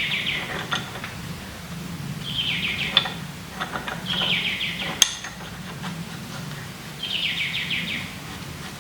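A small bird's quick trilled song, heard four times, each trill well under a second long, with a couple of sharp metal clicks from parts being handled.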